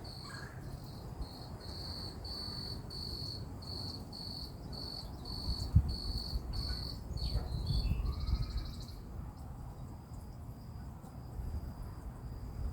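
A cricket chirping steadily, a high even chirp about twice a second, which stops about seven seconds in after a short buzzier note. Underneath is a low outdoor rumble with a soft thump about six seconds in.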